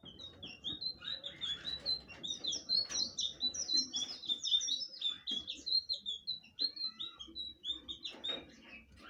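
Blue flycatcher singing a long, fast warbling song of short whistled notes that bend and slur, running on for about eight seconds and stopping near the end.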